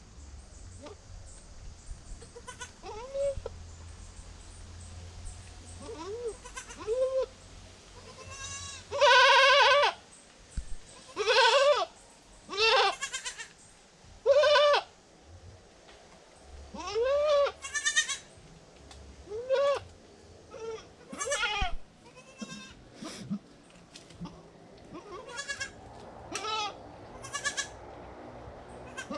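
Newborn goat kids bleating in short, repeated calls that rise and fall in pitch, with one longer, louder bleat about nine seconds in.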